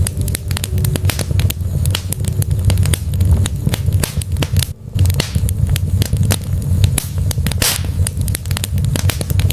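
Wood fire burning in a fireplace, crackling and popping in quick irregular snaps over a steady low rumble of the flames. The sound drops out briefly about five seconds in.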